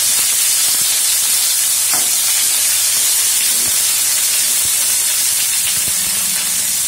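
Sliced onion, tomato and whole spices sizzling steadily in hot oil in a non-stick frying pan, with a few light clicks of a spoon stirring against the pan.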